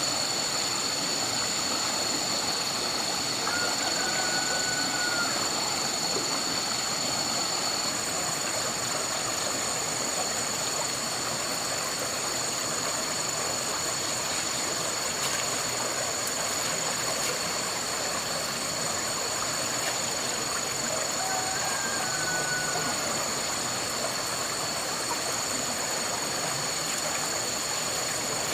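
Steady rushing noise of running water, with two high steady tones throughout. Two short faint whistles sound a few seconds in and again about two-thirds of the way through.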